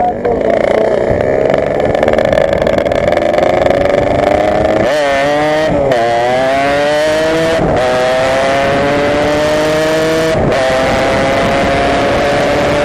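Yamaha RX-King's two-stroke single-cylinder engine, breathing through an Altech C20RR aftermarket exhaust, accelerating hard. The pitch climbs steadily through each gear, with four upshifts where it drops sharply before rising again.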